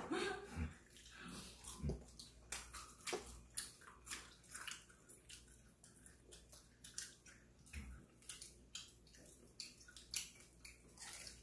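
People biting and chewing fried chicken: a quiet, irregular run of short clicks and crunches.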